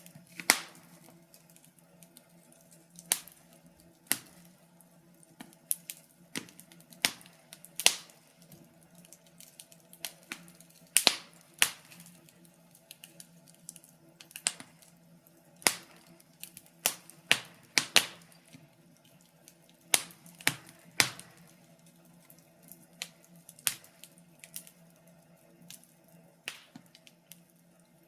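Wood fire crackling, with irregular sharp pops and snaps, some louder than others, over a faint steady hum.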